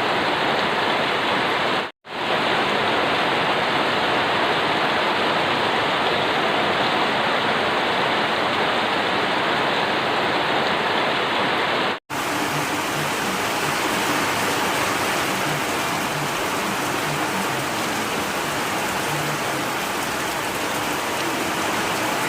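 Steady rain, a dense even hiss, broken by two brief silent gaps about 2 and 12 seconds in where the recording cuts; after the second gap the rain sounds brighter and hissier.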